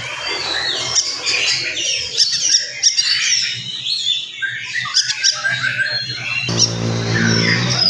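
Oriental magpie-robin singing fast and densely, a quick run of varied chirps and whistles. A low steady hum comes in near the end.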